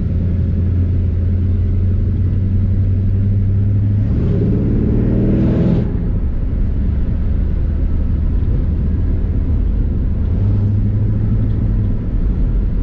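A 1957 Chevrolet 3100 pickup's 350 V8 drones steadily at cruising speed, with road rumble, heard from inside the cab. About four seconds in, a brief rising sound climbs for under two seconds and then cuts off sharply.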